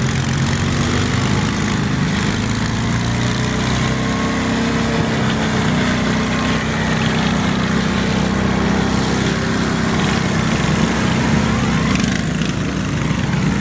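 Garden tractor engine running steadily at a fairly constant speed.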